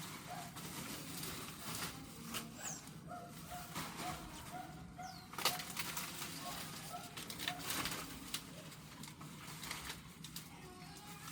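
Birds calling and chirping in short, repeated notes, with a few thin high whistled notes, over scattered sharp clicks and rustles.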